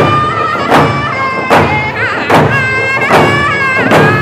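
Native American round dance song: hand drums struck together on a steady beat, a little more than one beat a second, under high-pitched group singing with long wavering held notes.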